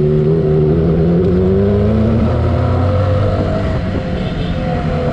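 Motorcycle engine running while riding, its pitch climbing slowly for about two seconds and then falling away to a lower, steady drone.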